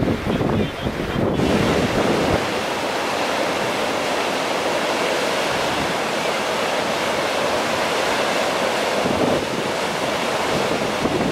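Steady rushing of the flood-swollen Kizu River, with wind buffeting the microphone for the first two seconds or so.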